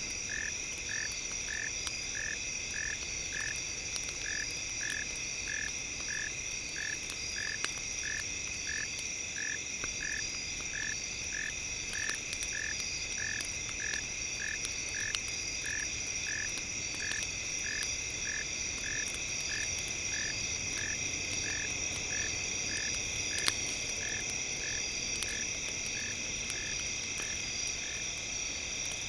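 A frog calls in short notes, evenly about twice a second, over a steady high insect chorus. Scattered faint crackling clicks sound throughout, one of them sharper about 23 seconds in.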